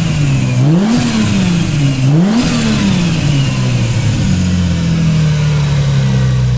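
Lexus SC300's engine being blipped twice, its pitch rising and falling with each rev, then settling into a steady idle.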